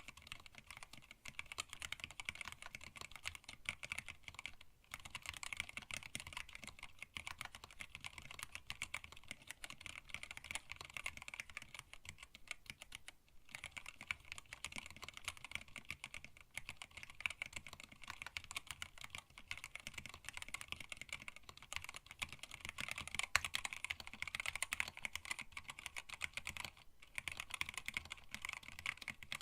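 Fast continuous typing on a split mechanical keyboard with Tealios linear switches, PBT keycaps and a stacked acrylic case: a dense stream of key clicks and clacks, broken by short pauses about 5, 13 and 27 seconds in.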